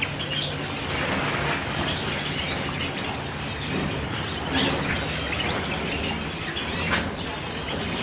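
Caged canaries chirping, many short calls overlapping, over a steady low hum.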